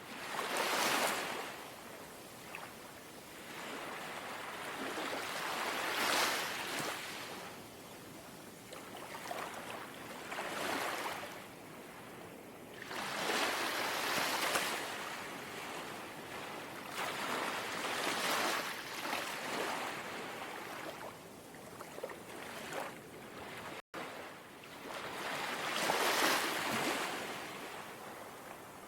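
Small sea waves gently lapping on the shore, each swell of hissing wash rising and fading about every four to five seconds. There is a momentary cut-out of the sound a little after two-thirds of the way through.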